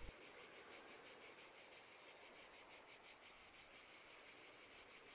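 Crickets chirping: a faint, high-pitched, evenly pulsing chirp, about three or four pulses a second.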